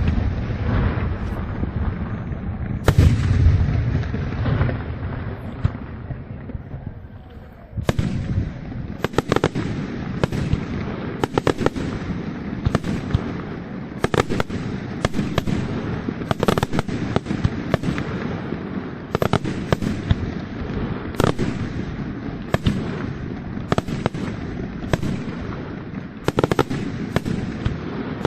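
Aerial fireworks display: a couple of heavy shell bursts with deep booms in the first few seconds, then from about eight seconds in a dense, rapid run of sharp bangs with crackling between them.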